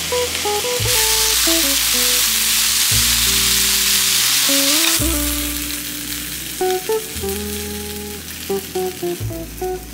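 Cauliflower gnocchi sizzling in a hot frying pan as they are tipped in and stirred with a spatula; the sizzle gets louder about a second in and fades away after about five seconds. Background music plays throughout.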